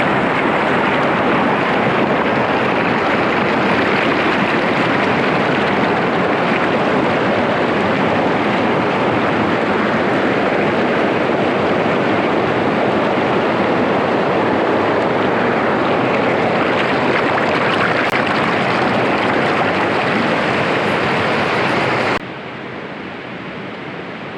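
Steady loud rush of a wind-and-rain storm in the woods, with no pitch or rhythm, dropping abruptly to a quieter steady rush near the end.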